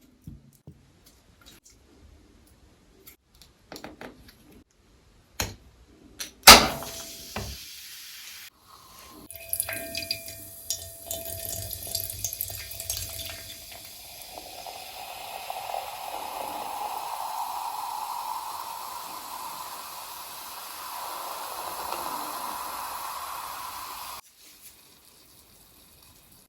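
Water running into a container, its pitch rising slowly as it fills, then stopping suddenly near the end. Before it come a few small clicks and one sharp knock about six seconds in.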